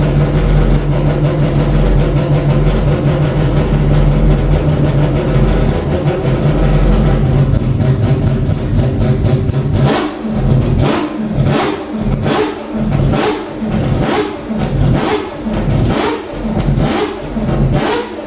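Mazda 787B's four-rotor rotary race engine idling with a steady low drone, then from about ten seconds in being blipped repeatedly, a short sharp rev rising and falling roughly every three-quarters of a second.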